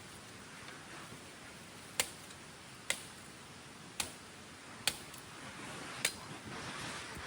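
Five sharp knocks, about one a second, over a steady hiss of rain that grows louder near the end.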